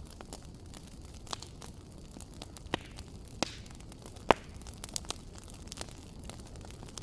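Wood fire crackling in a fireplace: irregular sharp pops over a low steady rumble, the loudest pop about four seconds in.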